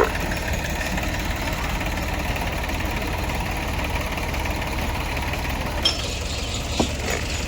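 Heavy diesel engine of a tractor or backhoe loader running steadily at idle, with a low, even rumble and a couple of faint clicks near the end.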